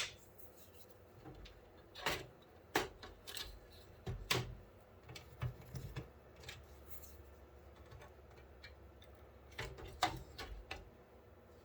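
Scattered sharp clicks and light knocks of a PC case's front fan being worked loose and handled, plastic and metal parts tapping, in two clusters with a pause between.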